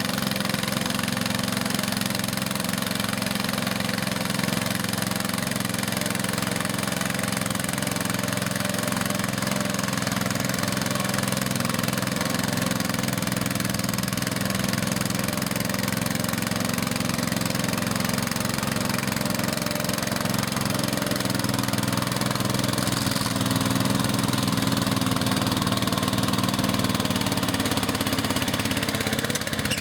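Garden tractor engine running steadily at an even speed.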